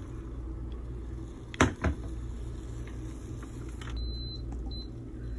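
Rice cooker humming steadily while cooking a thin egg layer, with two sharp clicks close together about a second and a half in, typical of its lid being shut. Near the end come three faint, short, high beeps.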